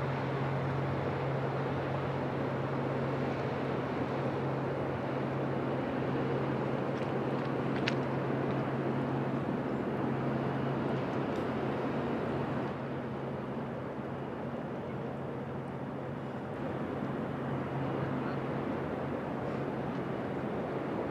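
Diesel engine of a passing Rhine inland vessel droning steadily with a low hum, growing a little quieter about two-thirds of the way through.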